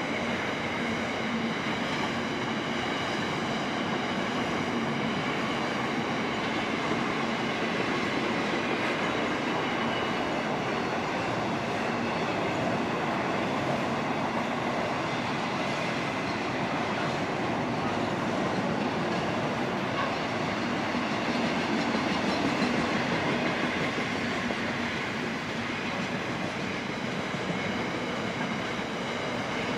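Container wagons of a long freight train rolling past: a steady, even rumble of steel wheels on the rails with a few faint, steady high tones above it.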